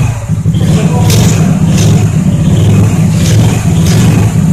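Majestic 250 engine running loud and steady.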